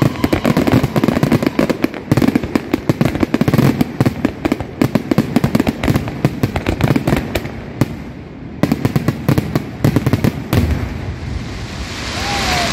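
Fireworks display going off in a dense, rapid volley of bangs and crackles, with a short lull about eight seconds in, stopping about ten and a half seconds in. The crowd starts cheering near the end.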